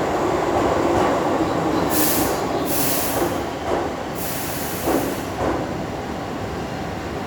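Keihan electric train running, its rumble easing off, with three short hisses of air about two, three and four seconds in.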